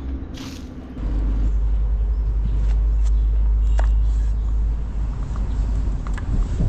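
A road vehicle passing: a deep rumble that swells about a second in and eases off near the end, with a few light clicks over it.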